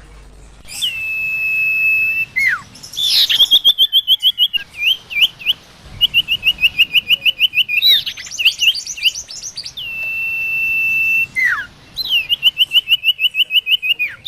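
A sirtu bird calling vigorously. It gives long, steady whistles that drop in pitch at the end, alternating with fast runs of short repeated whistled notes. The phrase repeats several times.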